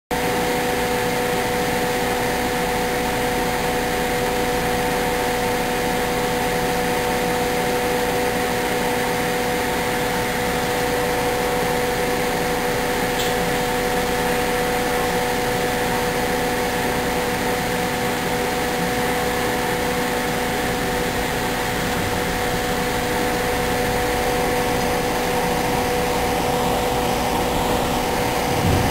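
Inside the passenger car of an electric commuter train as it rolls along: a steady hum with a few high, unchanging tones over an even running rumble and hiss.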